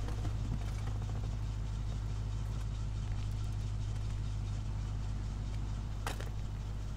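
Steady low rumble of a car engine idling, heard from inside the car's cabin. A brief sharp noise cuts through about six seconds in.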